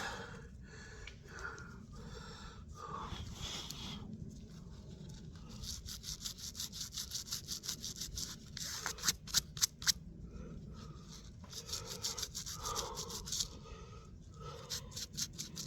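Small brush scrubbing dirt off a dug-up metal find, in quick runs of short, bristly strokes, with rubbing and handling sounds between the runs.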